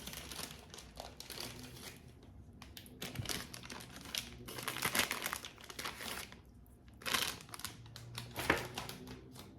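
Crinkling and rustling of a snack wrapper for sour gummies being handled and opened, in irregular bursts with the loudest about halfway through and again near the end.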